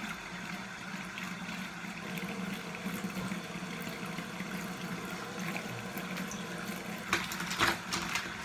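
A tap left running into a sink: a steady rush of water, with two sharp clicks near the end.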